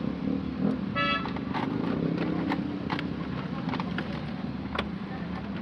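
A steady low hum with scattered light clicks and knocks, and a short beep about a second in.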